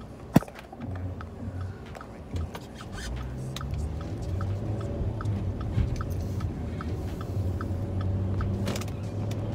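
Car engine running, heard from inside the cabin; its hum swells and rises in pitch about three seconds in. A sharp click comes near the start, and a light regular ticking comes about twice a second.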